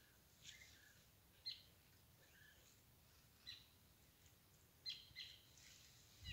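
Faint, short bird chirps and calls, high-pitched, coming about once a second over near silence.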